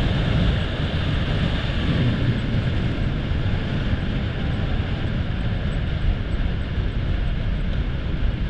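Steady rumble and hiss of a vehicle driving along, engine and road noise running evenly.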